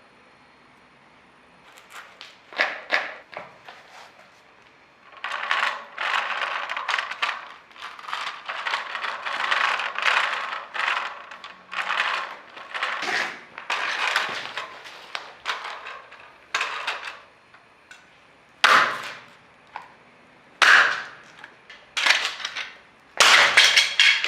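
A toy tractor cracking and crunching as it is crushed underfoot. A few cracks come first, then a long stretch of dense crunching, then single loud snaps near the end as it breaks apart.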